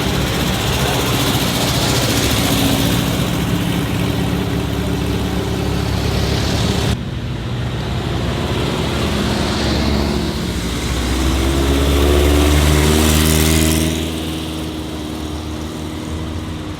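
Old car engines running, with an abrupt change in the sound about seven seconds in. Later an engine's pitch rises as it revs, loudest about twelve seconds in, then settles.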